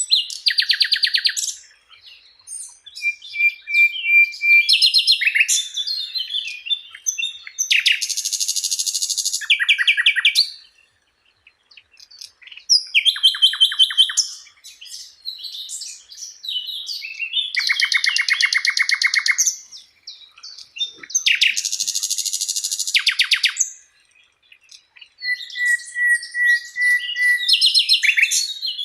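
Songbird singing a masteran song: a series of loud, varied phrases of fast repeated chirps and trills, broken by short pauses, with a few held whistled notes.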